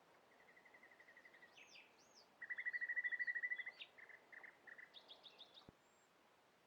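Songbirds singing: a fast, even trill twice, the second much louder, mixed with higher arching whistles and short chirps, over a faint steady outdoor hiss.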